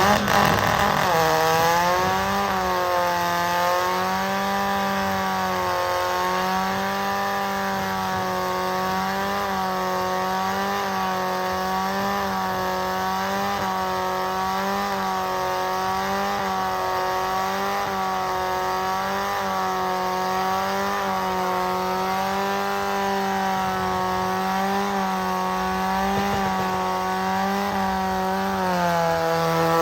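Car engine revving up over the first two seconds and then held at high revs for almost half a minute, its pitch wavering slightly every second or two.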